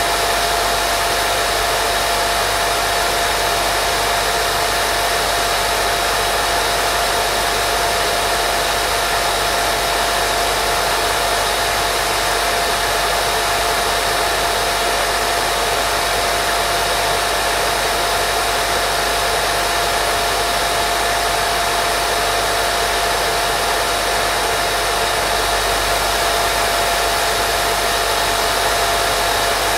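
Steady white noise for lulling a baby to sleep: an even, unchanging hiss with a faint steady tone running through it.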